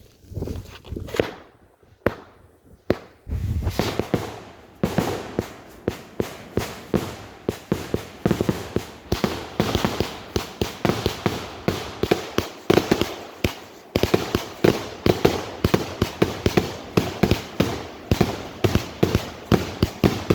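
Multi-shot consumer firework cake going off: a few single shots in the first three seconds, then a rapid continuous barrage of launches and bursts, about three a second.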